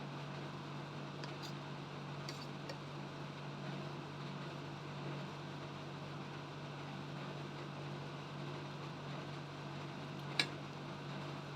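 Steady low background hum with a few faint clicks early on and one sharp click about ten seconds in.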